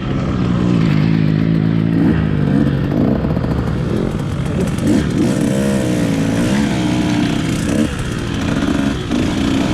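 Motocross motorcycle engine running hard, its pitch rising and falling repeatedly as the throttle opens and closes.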